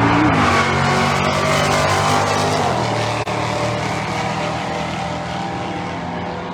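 A pair of stock-class drag cars, a 1972 Oldsmobile Cutlass S with a manual gearbox and a 1965 Chevrolet Malibu wagon with an automatic, running hard down the drag strip. The engine sound fades slowly as they pull away, with a brief break about three seconds in.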